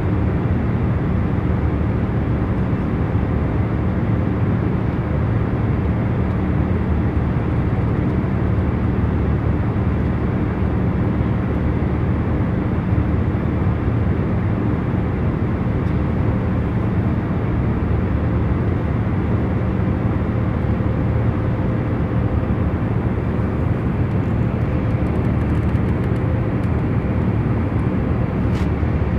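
Steady low hum and rush of an airliner cabin in cruise flight: a constant noise with a few faint steady tones in it, unchanging throughout.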